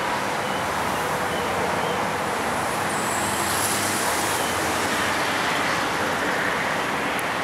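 Steady rumble of an electric commuter train on the line, mixed with traffic noise, even in loudness with no single event standing out.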